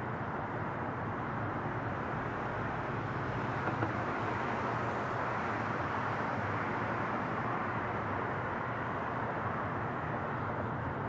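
Boeing 777's twin jet engines at takeoff power, a steady broad roar that swells slightly a few seconds in and eases again.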